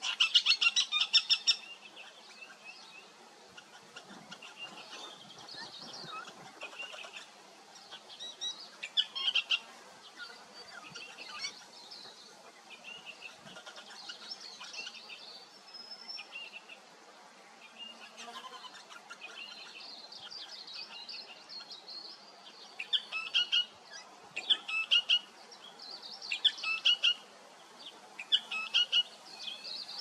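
Wild birds calling with rapid, high chirps in short bursts: a loud burst right at the start, scattered calls through the middle, and a run of repeated chirping bursts in the last several seconds.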